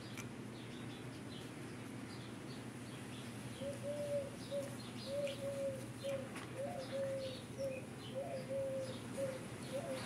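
A bird calling in the background: a run of short, even-pitched notes, about two a second, starting a few seconds in, over faint higher chirps.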